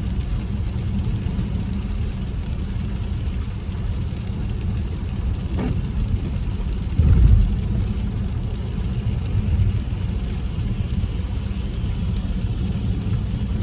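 Car interior noise while driving on a rain-wet road: a steady low rumble of engine and tyres, with a brief louder low thump about seven seconds in.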